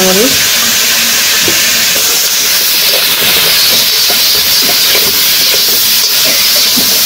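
Vegetables sizzling in hot oil in an iron karahi: a loud, steady hiss, with light scrapes of a metal spatula as they are stirred.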